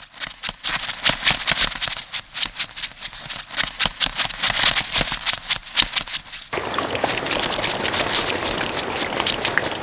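Crab sound effect: rapid, dry clicking and rattling, like claws and legs scuttling. About two-thirds of the way through it gives way to a steady rushing hiss.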